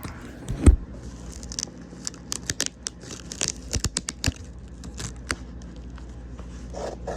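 Packing tape being peeled off a cardboard box, with crackling and rustling of packaging as it is handled. A loud knock comes less than a second in.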